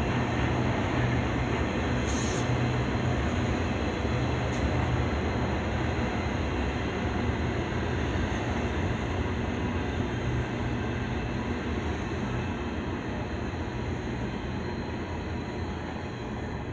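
Double-stack container well cars of an intermodal freight train rolling past: a steady rumble of steel wheels on rail, with a couple of faint clicks early. The sound slowly fades as the last cars go by near the end.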